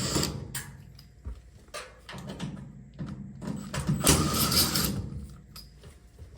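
Handling noises: scattered light knocks and clicks, with a longer scraping, rustling burst about four seconds in.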